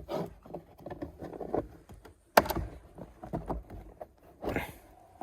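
Hands working the plastic glove box of a VW e-Golf, releasing its stop notches so that it drops: small knocks and rustles, with one sharp click about two and a half seconds in.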